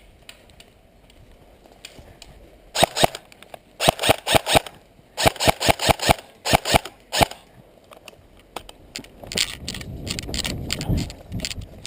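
Airsoft rifle fired on semi-auto, sharp single shots in three quick strings. Near the end comes a low rustling noise.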